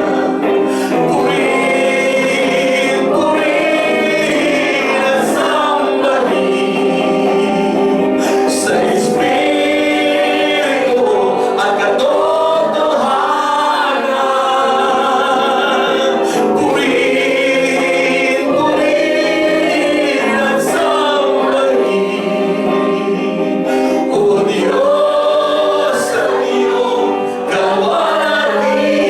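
A group of voices singing a worship song together in chorus, over steady held notes.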